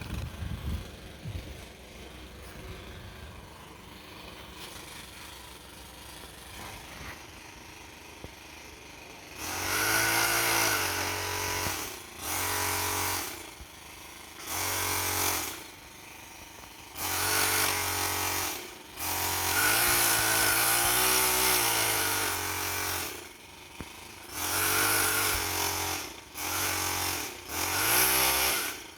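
Chainsaw engine revved in repeated short bursts, about eight in all, each one to three seconds, with its pitch climbing and dropping as the throttle opens and closes. They start about nine seconds in, after a low steady background.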